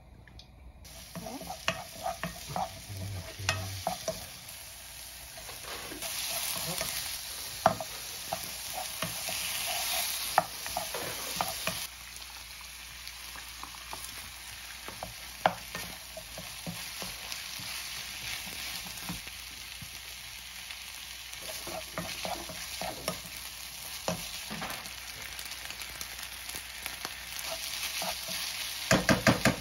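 Garlic, green onion, butter and shrimp sizzling in oil in a nonstick frying pan, while a wooden spoon stirs cooked rice in, clicking and scraping against the pan. The sizzle grows louder for several seconds after the oil goes in. A quick run of knocks comes just before the end.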